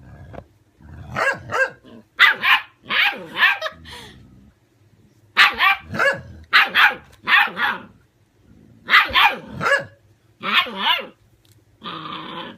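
Young puppies barking and yapping in quick clusters of short, high-pitched barks, with a rough, snarling sound near the end.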